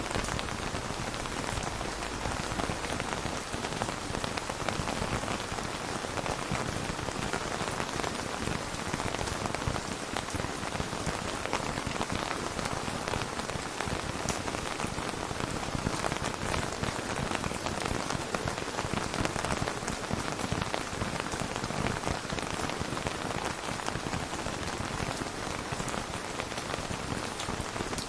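Steady rain falling and pattering on a surface, a dense even hiss with fine scattered drop ticks.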